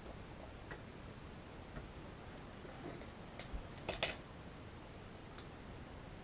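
Small metal tools handled at a workbench: a few light clicks and a brief clinking clatter about four seconds in.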